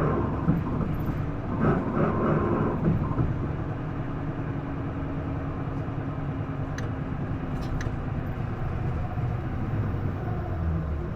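Isuzu Erga city bus (PDG-LV234L2) heard from inside the cabin, its diesel engine and drivetrain running while under way. A higher-pitched whine is present for the first couple of seconds, then fades into a steadier, lower running sound.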